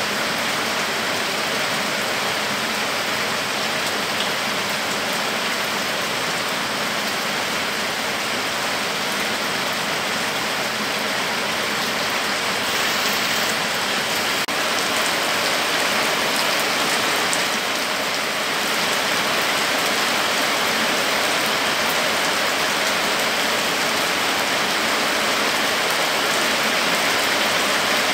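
Heavy rain pouring steadily onto leaves and a muddy dirt road running with water, a dense even hiss that grows slightly louder about two-thirds of the way through.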